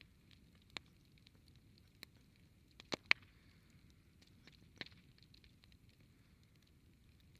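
Wood campfire crackling, faint, with scattered sharp pops; the loudest come as a quick pair about three seconds in and another near five seconds.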